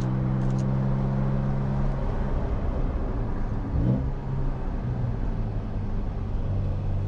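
Porsche 911 (992) engine running steadily, then revving up briefly about four seconds in before settling back to a lower, steady note.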